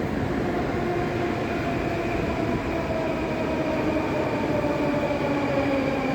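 Moscow Metro train running at the platform, a steady rumble with a whine of several tones that falls slowly in pitch as the train slows.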